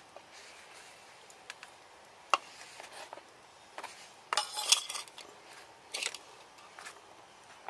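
Light metallic clinks and clatter of cookware and utensils being handled, with a sharp knock about two seconds in and a denser run of clinks around the middle.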